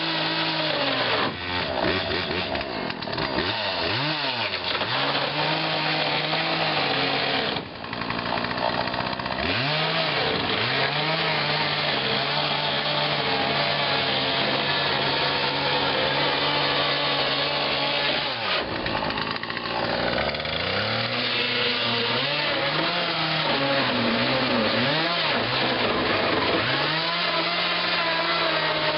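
Chainsaw cutting into a fiberglass boat hull, held mostly at a steady high run, its engine pitch dropping and climbing back up several times as the cut is worked.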